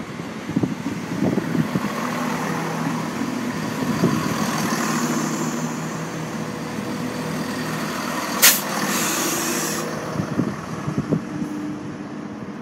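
Class 170 Turbostar diesel multiple unit running through the station: its diesel engines running steadily with wheel knocks on the track, a brief sharp hiss about eight seconds in, and the sound easing as it goes.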